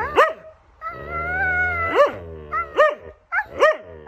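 A dog vocalizing in a run of short, swooping whining yelps, with one longer, drawn-out whine about a second in.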